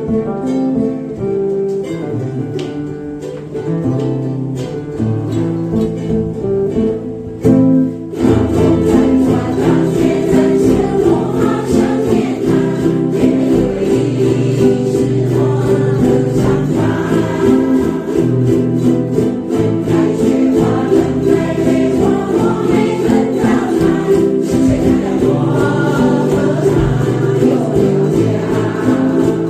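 Ukuleles playing a song, at first plucked instrumentally, then joined about eight seconds in by a group of voices singing in unison over the strumming.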